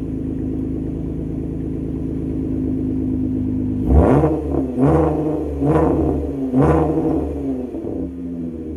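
Dodge Journey engine idling steadily, then revved four times in quick succession, each blip rising and falling back to idle, before settling to idle again.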